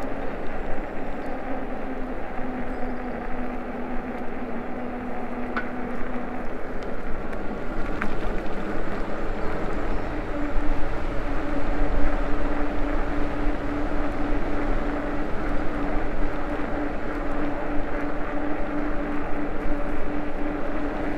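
ENGWE E26 fat-tyre e-bike riding: the hub motor's steady whine over rolling tyre and wind noise. The whine's pitch dips slightly for a few seconds, then rises back as the speed picks up, with a couple of faint clicks in between.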